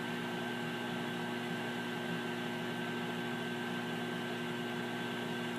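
Amana 2100-watt commercial microwave oven running while heating a cup of water: a steady hum from its fan and the running oven, with a few constant tones. It is a little louder than a normal household microwave.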